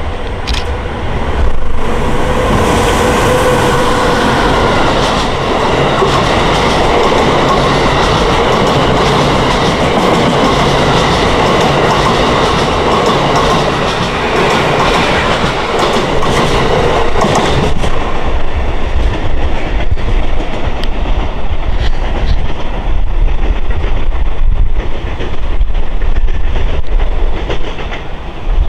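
Amtrak Regional train hauled by an electric locomotive running along the track: a loud, steady rumble and rattle of wheels on rail with clickety-clack. About two thirds through it turns duller and lower, with sharp clicks of wheels over switches.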